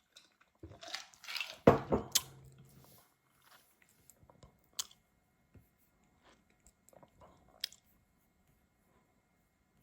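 Handling noise: rustling and a few knocks in the first few seconds, the loudest about a second and a half in, then scattered single sharp clicks.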